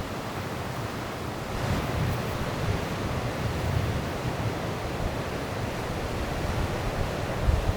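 Sea waves washing onto the shore, swelling about two seconds in, with wind buffeting the microphone in low gusts.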